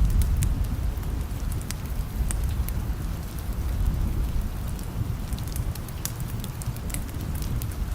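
Steady rain with the sharp crackles of a wood fire scattered through it. A low rumble of distant thunder is loudest at the start and eases off over the first few seconds.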